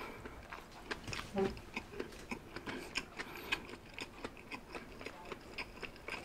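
Close-miked chewing of a mouthful of McDonald's Big Mac: soft, wet mouth clicks and smacks, several a second, with the lips closed.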